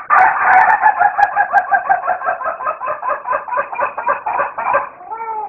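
Rooster crowing in an unusual way: one call of nearly five seconds broken into rapid stuttering pulses, followed near the end by a short falling note.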